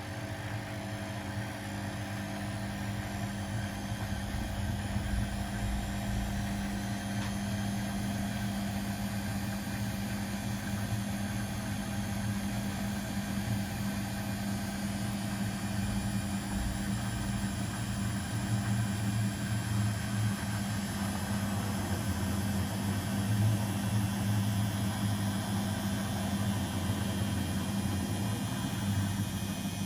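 Domestic washing machines and tumble dryers running together: a steady motor hum with a low rumble that gets a little louder over the first few seconds.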